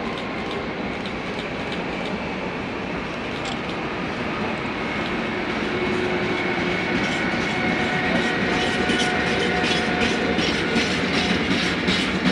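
Train approaching on the line and growing louder, with a faint steady whine and, from about seven seconds in, a regular clatter of wheels clicking over rail joints.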